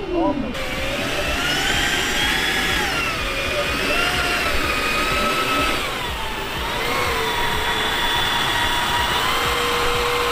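Turbine engines of a giant-scale RC Global 7500 jet model running at power: a rushing whine with several tones that rise and fall with the throttle, dip about six seconds in, then hold steady.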